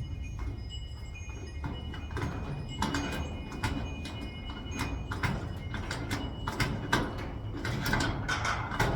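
Irregular light knocks and taps on metal, growing more frequent near the end: a socket being pounded to drive a push pin into a garage door lock, the metal door rattling with the blows.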